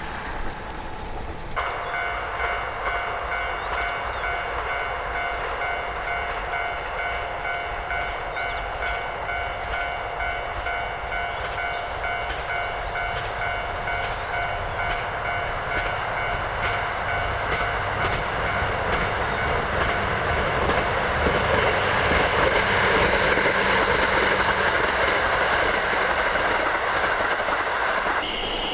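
Train running on the line, its noise building toward the end, with several steady high ringing tones held over it.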